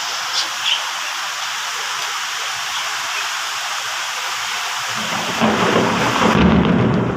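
Steady heavy rain hissing. About five seconds in, a low rumble of thunder builds and grows louder. Two short high chirps sound near the start.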